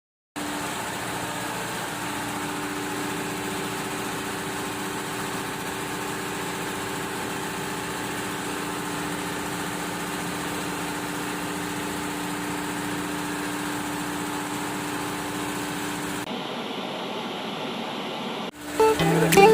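Ship's engine-room machinery running steadily: a constant drone with several held hum tones. About 16 seconds in it changes abruptly to a thinner, hissier noise, and music comes in near the end.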